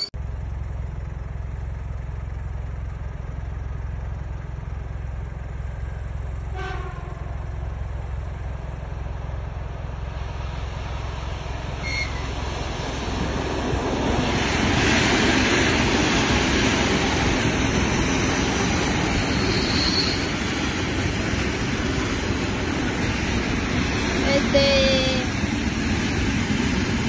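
ED4M electric commuter train: a steady low rumble at first, then from about halfway through the louder, even rush of the train running past.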